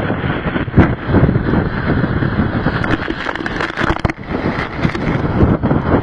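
Storm-force wind gusting hard against the microphone, a loud rushing roar with irregular surges and buffeting.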